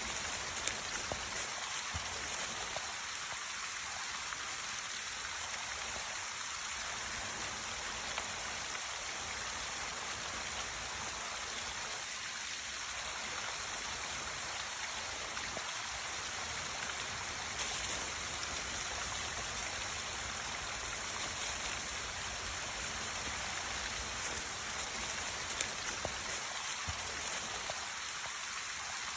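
Thawing mountain creek: meltwater running steadily over and under the ice, with a few faint ticks.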